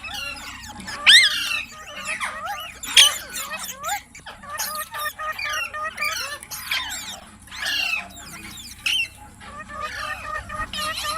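Indian ringneck parrot chattering and squawking: a fast run of whistled, pitch-gliding notes, broken by loud sharp squawks about a second in and again around three seconds in.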